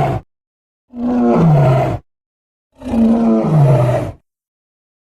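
Dinosaur creature roar sound effects for the Baxirosaurus, played one after another with dead silence between them. The tail of one roar ends just at the start, then come two more roars, each about a second long, starting on a held low tone and then dropping lower in pitch.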